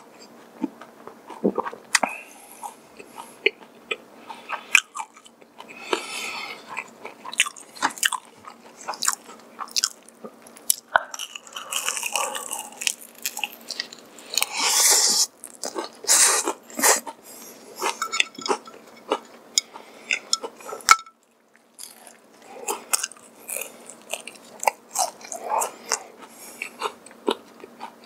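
Close-up mouth sounds of eating crispy honey-glazed fried chicken: crackling bites and wet chewing, the loudest crunches coming a little past the middle, with a brief silent break about three quarters of the way through.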